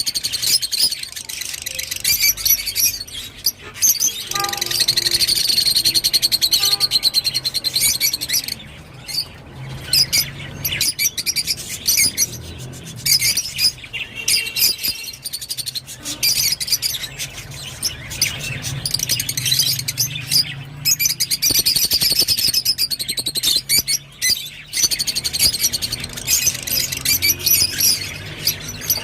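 Rosy-faced lovebirds chirping and chattering in rapid, shrill runs, with a few short pauses.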